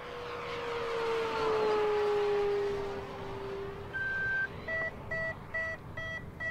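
Electric motor and propeller of a 1.5 m E-flite Fw 190A RC warbird making a low pass, a steady whine that is loudest about two seconds in and drops in pitch as it goes by. From about four seconds in, one longer electronic beep and then a run of short beeps, a little over two a second.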